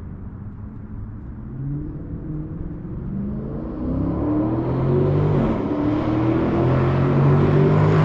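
Dodge Charger Scat Pack's 392 HEMI V8 through an MBRP 3-inch race catback exhaust, accelerating, its exhaust note climbing in pitch and growing steadily louder.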